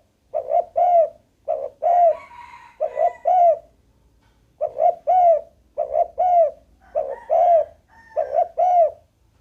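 Spotted dove cooing: repeated phrases of two or three low, arched coo notes with short pauses between phrases. A fainter, higher-pitched sound comes in twice between the coos.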